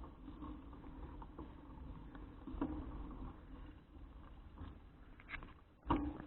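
Bicycle riding noise picked up by an action camera: a steady low rumble of wind and tyres on the road, with a few sharp rattles or knocks from the bike, the loudest just before the end.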